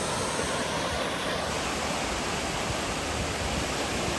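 Steady rushing noise of sea surf breaking on a beach.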